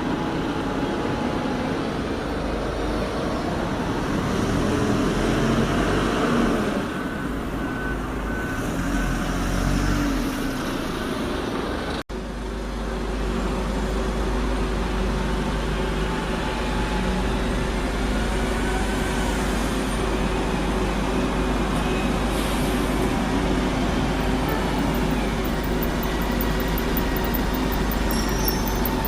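Road traffic with heavy diesel vehicles, likely buses, running and passing. The sound is steady, with a sudden break about twelve seconds in.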